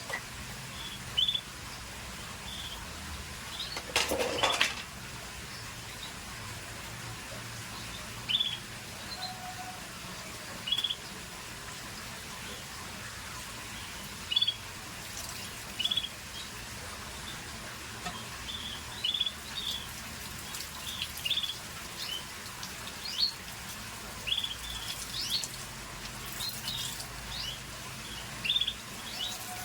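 Scotch Fancy canary giving short, separate chirps every second or two, with a brief louder rustle about four seconds in.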